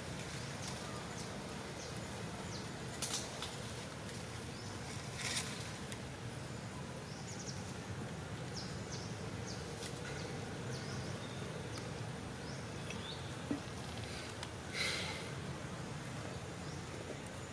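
Outdoor ambience: a steady hiss with scattered short, high chirps and a few brief noisy bursts, like rustling or scuffling, about three, five, ten and fifteen seconds in.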